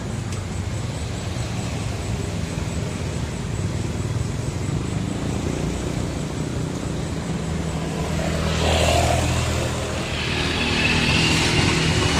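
A vehicle engine's steady low rumble, getting louder twice in the last few seconds, with a thin high whine coming in near the end.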